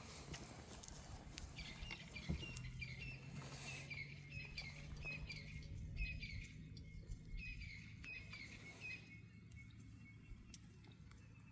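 A bird singing, repeating short phrases of chirping, stepped notes over and over, over a faint low steady hum that fades about halfway through.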